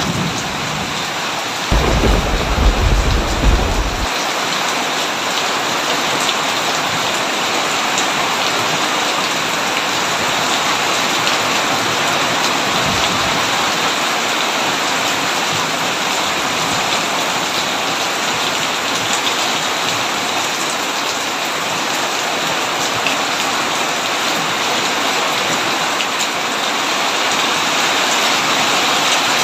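Heavy rain falling steadily, with a burst of thunder rumbling about two seconds in for around two seconds, and a fainter low rumble later on.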